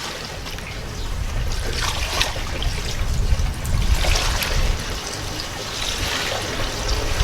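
Gasoline draining from a car's fuel tank through a funnel into a gas can, a steady pouring trickle.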